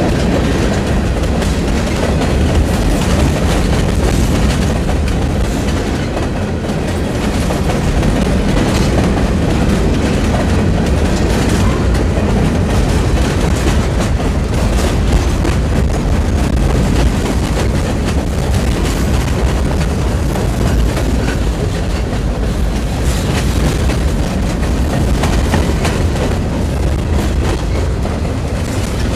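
Freight cars of a mixed freight train rolling past at close range: a steady heavy rumble of steel wheels on rail, with clicking as the wheels cross the rail joints.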